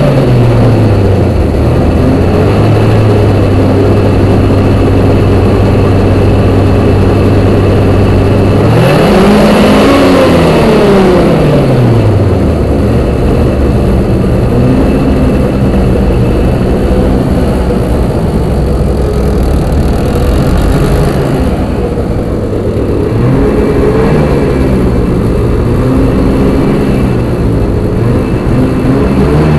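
Snowmobile engine running after a cold start on choke: it settles to a steady idle, is revved up and back down once about nine seconds in, then given a few lighter blips of throttle.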